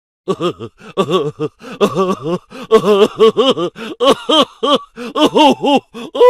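Voice sound effect: a rapid run of short, pitched vocal syllables, each swooping up and then down, starting just after a brief silence. No words can be made out.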